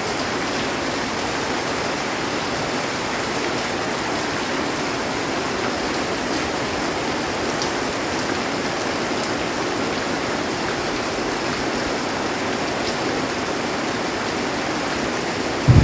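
Heavy rain falling steadily on a metal roof, an even hiss with no let-up. Thunder breaks in loudly right at the very end.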